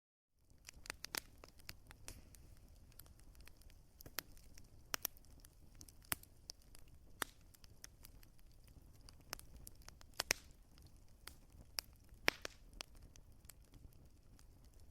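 Wood fire crackling: irregular sharp pops and snaps over a low, steady rumble, with a few louder pops about a third of the way in and again near the end. The sound drops out to silence for a moment at the very start.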